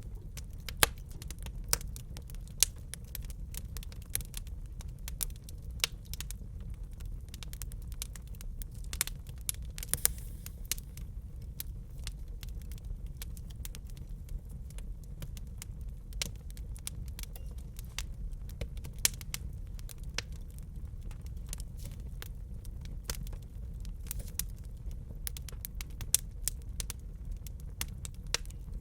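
Fireplace fire crackling: irregular sharp pops and snaps over a steady low rumble, with a few louder pops, two of them in the first few seconds.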